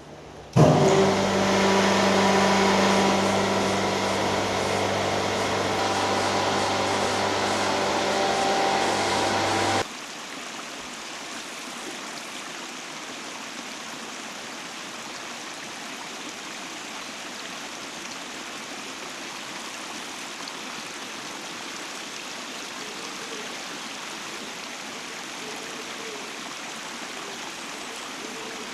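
Water rushing together with a steady mechanical hum that holds an even pitch, the loudest part, cutting off abruptly about ten seconds in. After the cut comes the even, steady rush of a stream or small waterfall.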